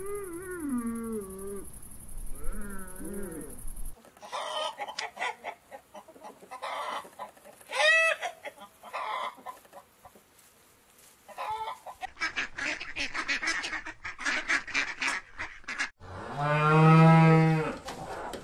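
A run of farm-animal calls. First a calf bawls in wavering calls. About four seconds in, hens cluck and a rooster crows once. A stretch of rapid bird calls follows, and near the end a cow gives one long, loud moo.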